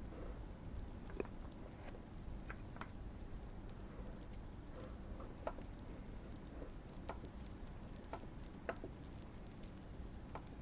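Fireplace crackling: scattered small pops and fine crackles at irregular intervals over a steady low background rumble.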